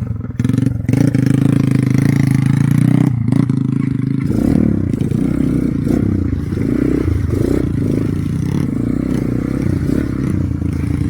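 Motorcycle engine running under load, its pitch steady at first and then rising and falling from about four seconds in, with scraping and clattering over a rough road.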